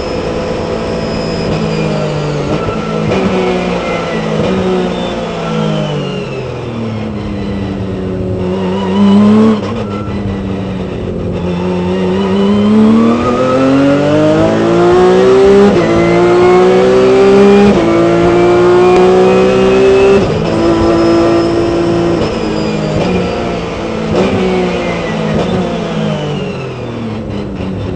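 Onboard sound of a Porsche 997 Cup race car's flat-six engine at racing speed: the revs drop through a braking zone with downshifts, then climb hard through the gears, the pitch stepping down at each upshift about every two seconds, before falling away again near the end.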